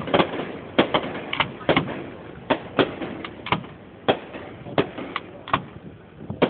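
Fireworks going off, sharp bangs at an irregular pace of about two a second, each with a short echoing tail.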